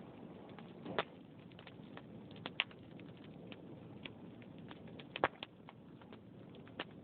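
Wood fire crackling with scattered sharp pops over a steady low rush of flames, the loudest pops about a second in, near the middle and about five seconds in.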